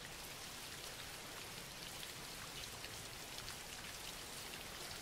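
Steady rain falling, a quiet even hiss of rain with many small scattered drop ticks.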